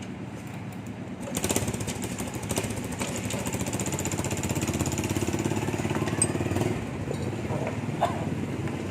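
A small engine running with a fast, even pulsing, swelling about a second and a half in and easing off near the end.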